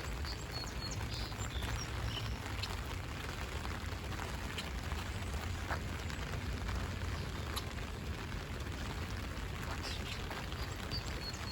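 Rain falling steadily and pattering on an umbrella overhead, with scattered sharp drop ticks over a low rumble, and a few brief high bird calls.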